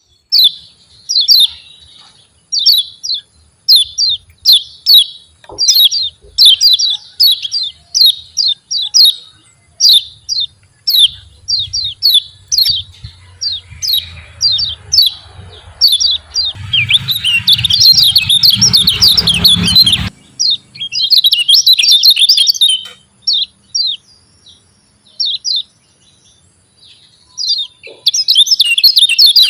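Kecial kuning white-eye calling 'ciak ciak jos': sharp chirps repeated in quick series. About halfway through they run together into a dense, rapid burst for a few seconds.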